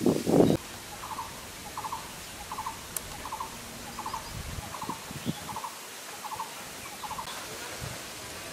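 A bird calls over and over, a short rattling phrase of a few quick notes repeated evenly about once every 0.7 seconds. A brief rustle of dry leaves comes at the very start.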